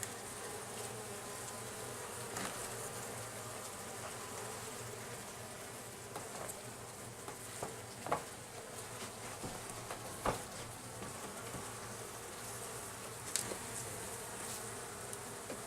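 Honeybees buzzing steadily as a colony is moved into a hive, with a few light clicks and knocks scattered through, the sharpest about eight and ten seconds in.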